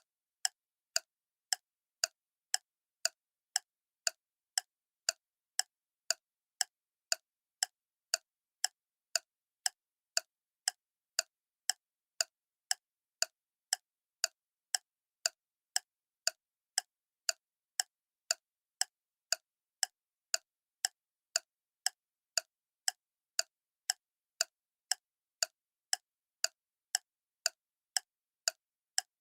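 Clock ticking steadily, about two sharp ticks a second, with dead silence between ticks.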